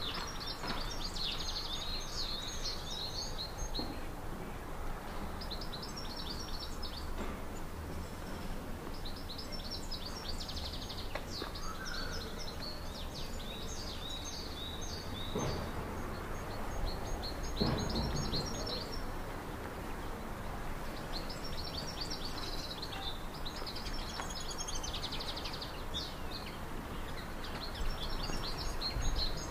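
A songbird sings short, high, trilling phrases over and over, a new phrase every two to three seconds. Underneath runs a low, steady rumble, with two dull thumps about halfway through.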